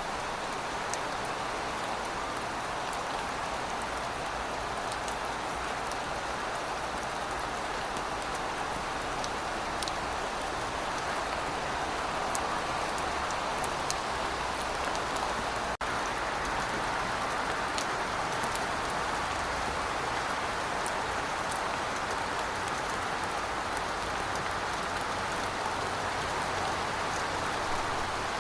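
Steady rain falling on a surface: an even hiss with scattered sharp drop ticks, and a split-second break in the sound about halfway through.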